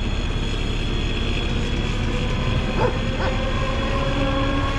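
Snow-clearing truck's engine running steadily, with a dog barking twice about three seconds in.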